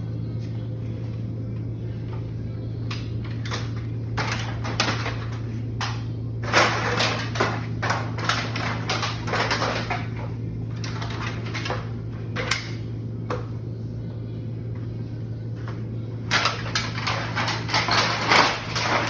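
Bursts of rustling, clattering and clinking as a ladder is moved and a bag of empty bottles and cans is handled and set up on a high shelf. A steady low hum runs underneath.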